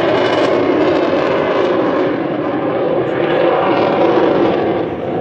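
Loud, steady jet noise from a Eurofighter Typhoon's two Eurojet EJ200 turbofan engines.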